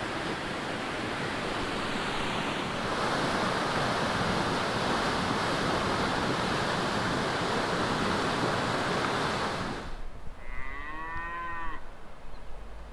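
A steady rushing noise that starts suddenly and cuts off about ten seconds in, then a cow mooing once, a single call of about a second whose pitch rises and falls.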